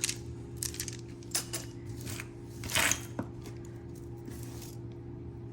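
Costume jewelry pieces (metal and plastic necklaces and chains) clicking and clinking as they are handled and sorted, a scatter of light knocks with the loudest about three seconds in. A steady low hum runs underneath.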